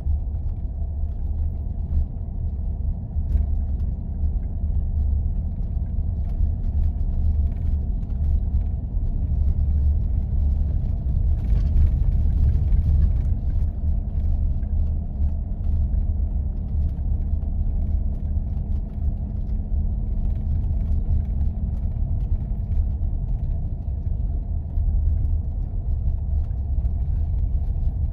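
4x4 vehicle driving on snow-covered roads: a steady low rumble of engine and tyres, with a faint steady hum above it.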